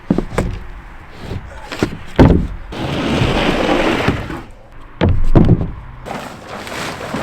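Sheets of OSB sheathing being handled and laid over framing openings: several wooden thumps, and about a second of scraping as a sheet slides, roughly three seconds in.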